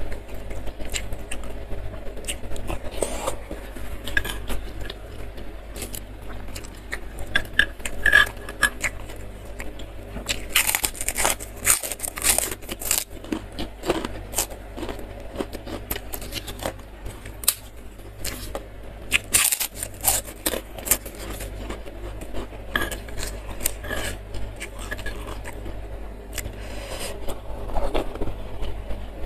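Close-up ASMR eating sounds: wet chewing and crunching of fried tofu and raw whole green bird's-eye chilies in a thin spicy broth, with a metal spoon clinking and scraping against a stone mortar bowl. The crunches and clicks come in thicker clusters about ten seconds in and again around twenty seconds.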